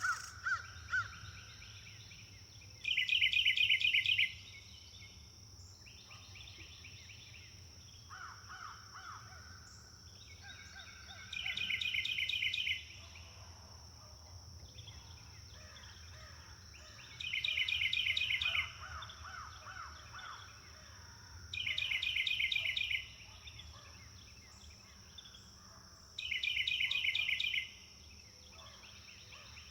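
Songbirds singing: one bird repeats a short, rapid trilled phrase of about a second and a half, five times, every four to five seconds. Softer, lower calls from other birds fill the gaps.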